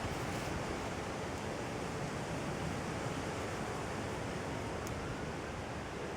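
A steady, even rushing noise with no clear events, like wind or distant ambient noise on an outdoor microphone.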